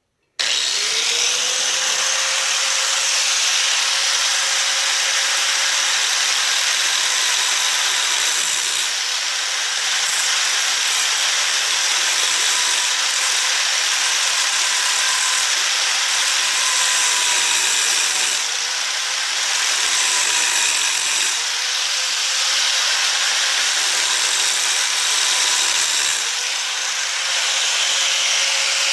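Electric power tool spinning up and then grinding steadily on a steel baler roller chain, working through a link so the chain can be cut to length; the load eases and picks up a few times.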